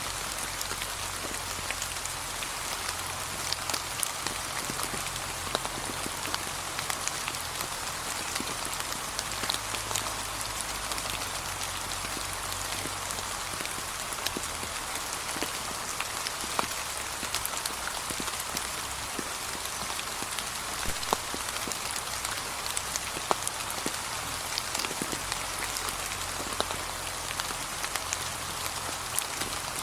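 Steady light rain falling, with many individual drops ticking sharply against the steady patter.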